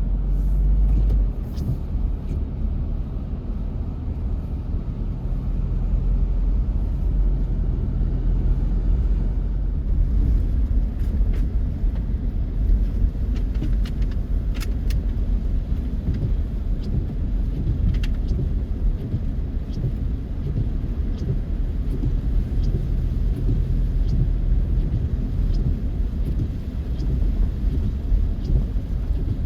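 Steady low road and engine rumble heard from inside a moving car, with scattered faint ticks over it.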